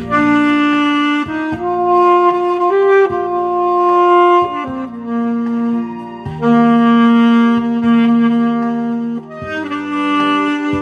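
Saxophone playing a slow melody of long held notes over an accompanying backing track.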